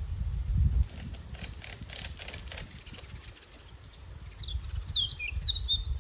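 A small songbird singing a quick run of warbling, pitch-sliding notes from about four and a half seconds in, over outdoor ambience with a low rumble in the first second and a patch of short crackling rustles in the middle.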